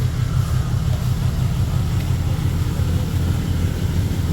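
Steady low drone of an idling truck engine.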